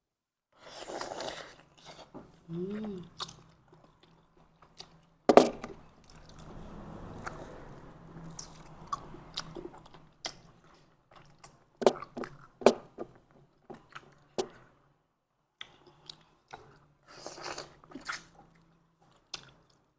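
Close-up chewing and biting of tender pork hock, wet and irregular, with sharp smacks and clicks scattered through; the loudest click comes about five seconds in.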